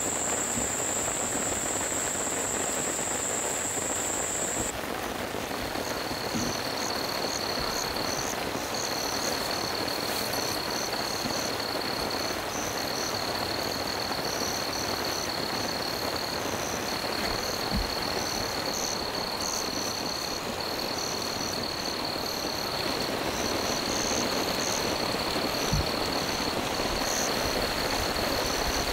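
Steady rain falling with a night chorus of frogs and insects. A high continuous trill stops about five seconds in and gives way to a slightly lower trill broken by short gaps, over fast pulsing chirps.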